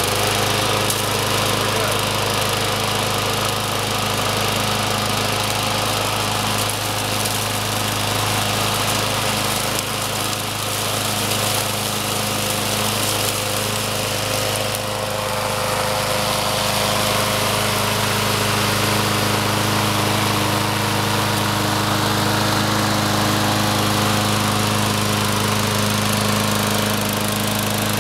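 Troy-Bilt 21-inch push mower's 6.5 hp Briggs & Stratton single-cylinder engine running steadily, just after its first cold start of the year.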